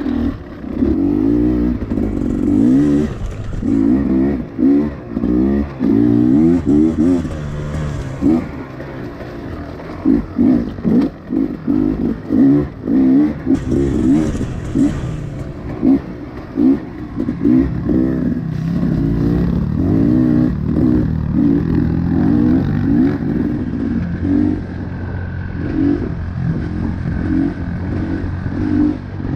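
Honda CRF110 pit bike's small single-cylinder four-stroke engine being ridden hard, revving up and falling back over and over as the throttle is opened and closed, then holding a steadier pitch for the last several seconds.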